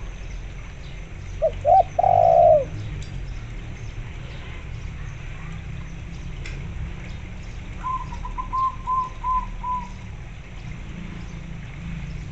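Doves cooing. About a second and a half in, a spotted dove gives its loud, low coo phrase: two short notes and a longer drawn-out one. About eight seconds in, a zebra dove answers with a quick run of about six short, higher coos.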